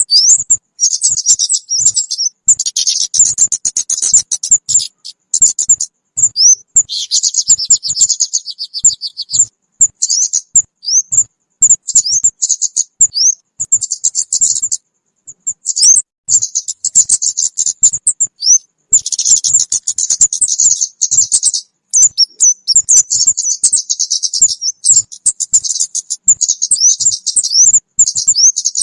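Lure-call recording of kemade bird calls: rapid high chirps and buzzy trills mixed with short upswept notes, coming in bouts with brief pauses.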